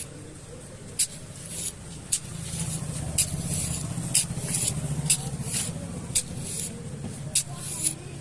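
A small motor hums steadily, with short hissing strokes about once a second.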